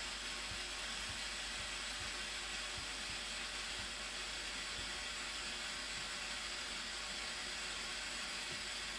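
Steady, even rushing of the Blue Nile Falls' falling water, a hiss-like noise with no breaks.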